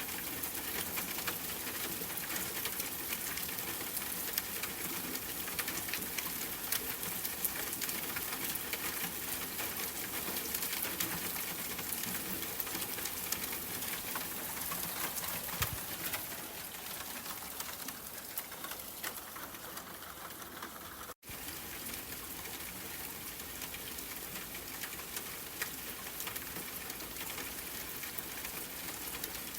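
Steady rain with many close, distinct drops pattering. It cuts out for an instant about two-thirds of the way through.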